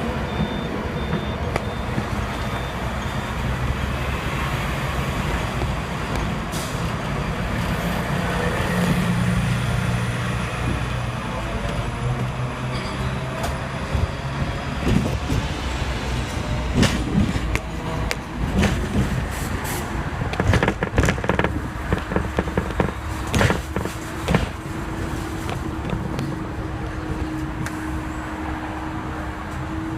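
Hong Kong double-decker tram running on street rails, heard from on board: a steady rumble of motor and wheels, with a run of sharp clacks and knocks over the rails through the middle. A steady hum sets in near the end.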